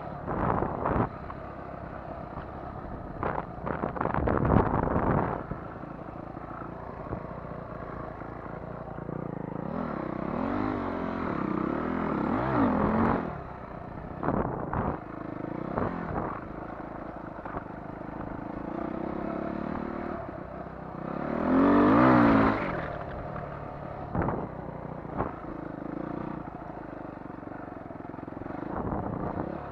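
Motocross dirt bike engine revving up and down as it is ridden, with clattering knocks a few seconds in and a louder surge in revs about two-thirds of the way through.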